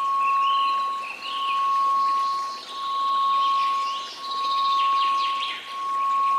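A steady 1098 Hz pure tone over a hiss of white noise, swelling and fading in level about every second and a half, with bird-like chirps and twitters above it.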